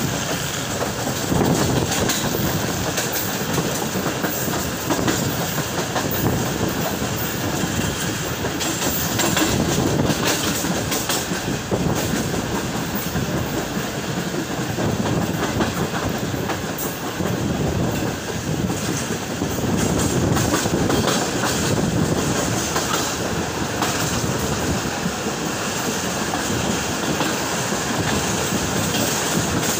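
Pak Business Express passenger train running along the line, its wheels clattering over the rail joints with a steady rolling noise, heard from on board.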